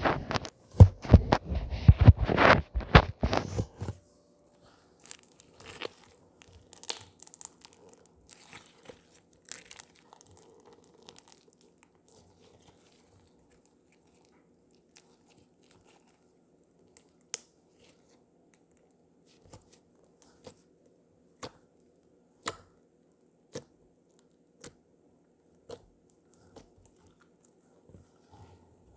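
Slime being squished and pressed by hand: a few seconds of loud, dense crackling and popping. This thins out to scattered clicks, then to single sharp pops about once a second.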